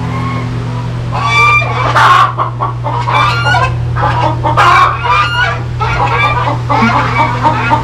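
Several chickens clucking and squawking together, a busy run of loud, repeated calls starting about a second in, over a steady low hum.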